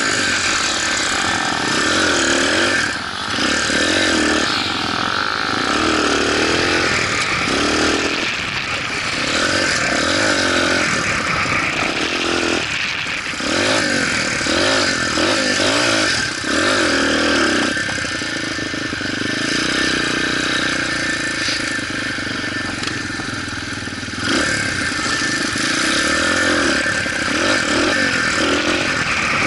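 Motorcycle engine running while being ridden, its pitch rising and falling again and again with the throttle, over a steady rushing hiss.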